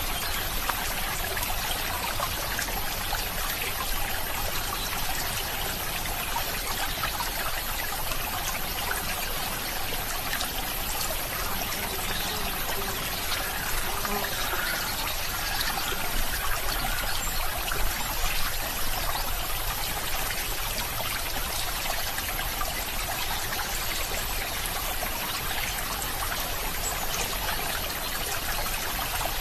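Small stream of water flowing and trickling steadily over stones, with many small splashes.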